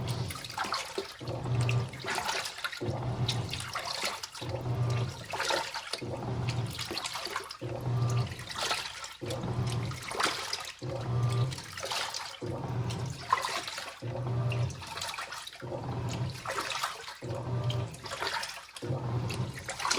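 Washing machine churning water during a cleaning cycle: each stroke of the motor hums briefly as the water sloshes, repeating about every one and a half seconds.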